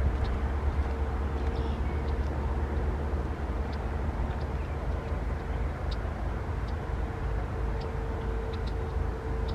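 Steady low rumble of an approaching diesel freight train, with a faint steady mid-pitched tone running through it.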